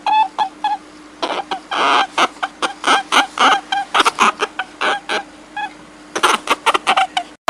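A rapid series of short, sharp animal calls, several a second, with a faint steady hum underneath and a brief cut-off just before the end.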